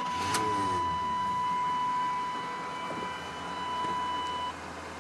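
Chevrolet 350 V8 of a 1992 Chevy 2500 pickup running at idle just after being started, a steady low hum with a brief change in pitch about half a second in. A steady high tone runs alongside and cuts off a little before the end.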